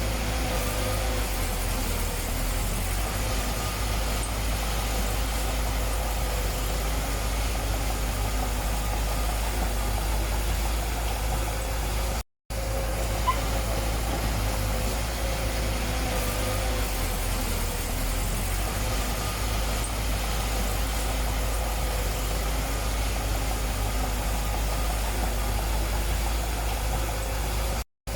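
Diesel engine of heavy earthmoving machinery running steadily with a low rumble, cutting out briefly twice.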